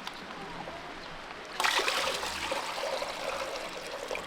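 Water starts pouring and splashing about one and a half seconds in, then runs on as a steady trickle.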